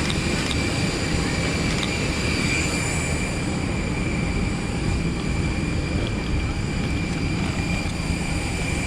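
Steady rumble with a constant high-pitched whine from a parked Airbus A320neo, its engines shut down and its auxiliary power unit running.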